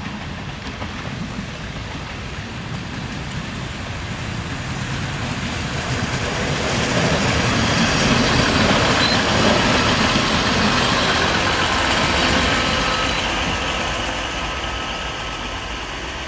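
Two-car diesel-hydraulic railcar passing close by, its diesel engine running and wheels rolling on the rails. It grows louder to a peak about halfway through, then fades as it pulls away.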